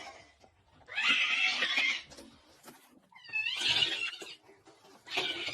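A cat meowing three times, each call about a second long, the middle one wavering in pitch.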